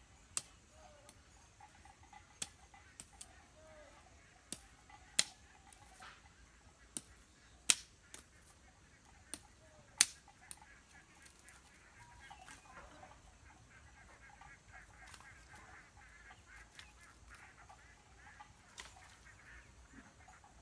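Irregular sharp knocks or clicks, about a dozen spread over the first ten seconds, with faint poultry calls underneath.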